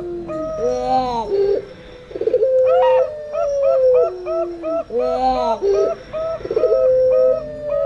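Zebra doves (perkutut) and puter doves cooing together. A long held coo slides down in pitch, alternating with quick runs of short rising-and-falling notes, and the pattern repeats every few seconds.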